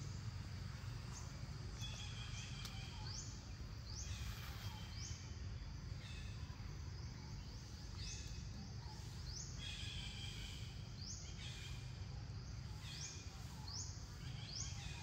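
A bird calling over and over, about once a second: a quick falling chirp followed by a short, higher-pitched stacked note, over a steady low rumble of outdoor background noise.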